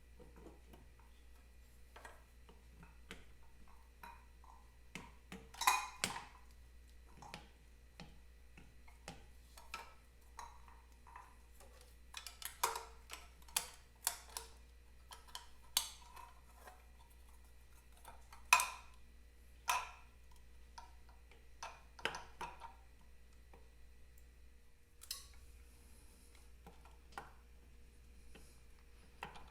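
Irregular metallic clicks, taps and clinks of parts and hand tools being handled during work on a motorcycle dynamo, a few louder knocks among faint ones, over a steady low hum.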